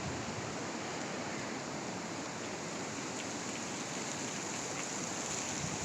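Strong wind blowing through trees and dry leaves, a steady rushing hiss.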